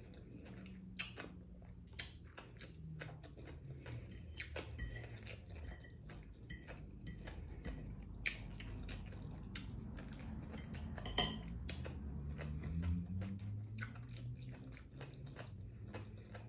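Close-miked chewing of fried fish and coleslaw, with many small wet mouth clicks and smacks, and a fork now and then tapping and scraping the plate; the sharpest click comes about eleven seconds in.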